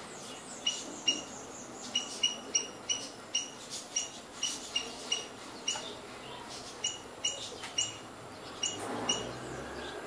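A small bird giving short, high single chirps over and over, roughly two a second with brief pauses between runs. A faint low rushing noise swells near the end.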